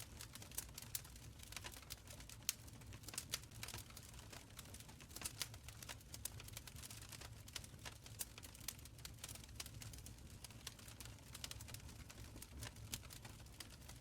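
Wood fire crackling in a stone fireplace: frequent irregular snaps and pops over a faint low rumble of the flames, with a louder snap about two and a half seconds in.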